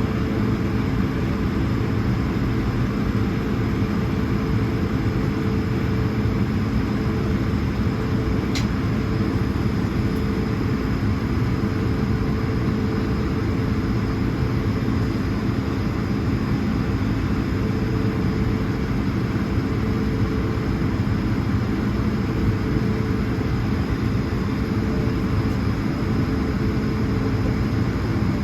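Steady cabin drone of an Airbus A220-100, its Pratt & Whitney PW1500G geared turbofan engines running at a constant setting, with a steady hum under the noise. One faint short click about eight and a half seconds in.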